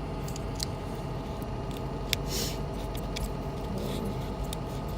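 Steady hum of a 2012 Mustang GT's idling 5.0 V8 and heater blower, heard from inside the cabin, with scattered small plastic clicks and a brief rustle as wiring connectors under the center console are handled and unplugged.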